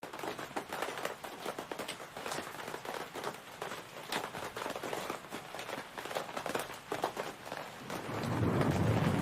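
Rain falling, a steady hiss scattered with sharp drip and splash sounds, as the opening of the song; about 8 seconds in, deep bass notes of the music swell in under it.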